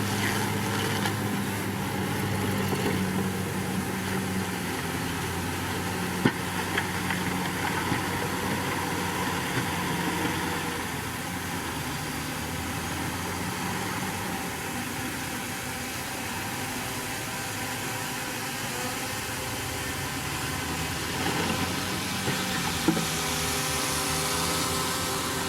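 Diesel engine of a Komatsu D61PX crawler bulldozer running steadily as the machine works, with a sharp clank about six seconds in and another near the end.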